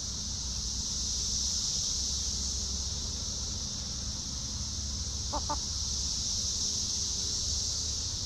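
Steady high insect buzz over a low rumble, with a short double cluck from a chicken about five seconds in.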